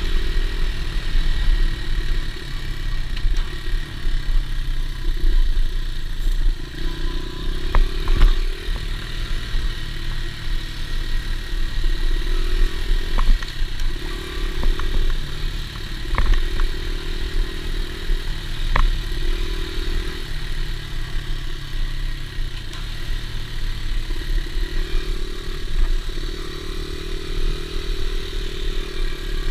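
Dirt bike engine running, its note rising and falling every couple of seconds as the throttle is worked, with a few sharp clicks and knocks.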